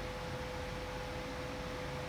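Steady, even hiss with a constant low hum-like tone running through it, unchanging throughout.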